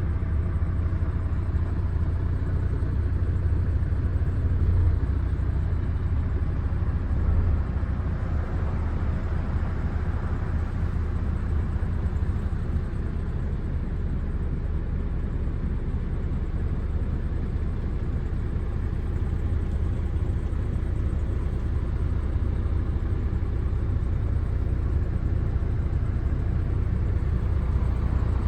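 MAN TGX 26.470 tractor unit's 470 hp Euro 6 diesel engine idling, a steady low rumble.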